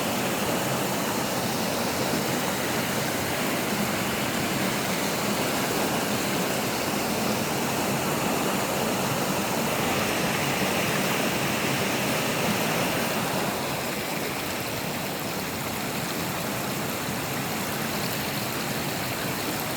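A village brook flowing steadily, an even rush of water, a little quieter over the last few seconds.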